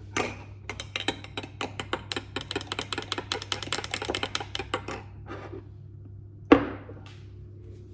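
Spoon stirring a kefir and semolina batter in a bowl: quick rapid clicking for about four seconds, then a single sharp knock.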